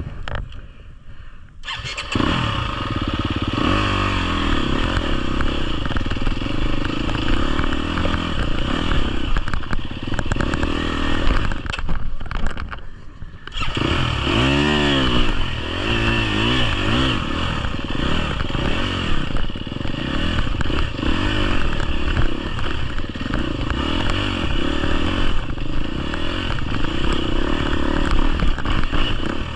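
A 250cc four-stroke GasGas EX250F enduro dirt bike engine comes in about two seconds in and runs under riding, its revs rising and falling. It drops away briefly near the middle, then revs up sharply and carries on.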